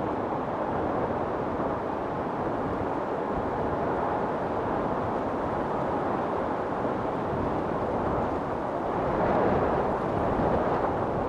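Wind storm: strong wind blowing steadily, swelling in a gust about nine seconds in.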